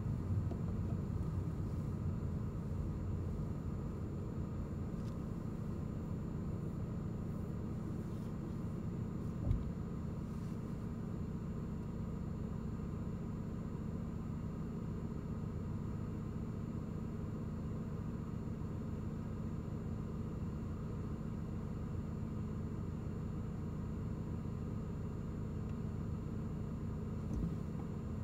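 Car engine idling steadily, a low rumble, with one short knock about nine and a half seconds in.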